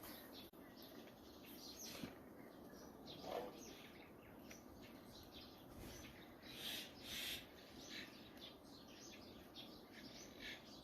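Faint birdsong: many short chirps from small birds over a low, steady background, with a busier run of calls about seven seconds in.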